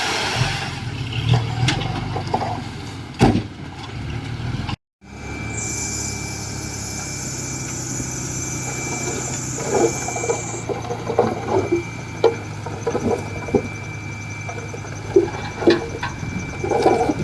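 Komatsu D51EX bulldozer's diesel engine running steadily, with scattered metallic clanks and knocks as it works stone and soil. The sound cuts out for an instant about five seconds in.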